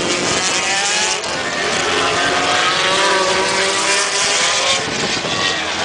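Several racing motorcycles running at high revs on track, their overlapping engine notes wavering up and down in pitch as they pass.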